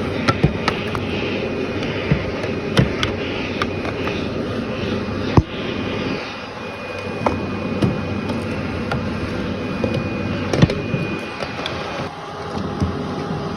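Vacuum cleaner running steadily, with many sharp clicks and ticks scattered through it as crunchy debris is sucked up; the loudest click comes about five seconds in. The level dips briefly twice, near the middle and near the end.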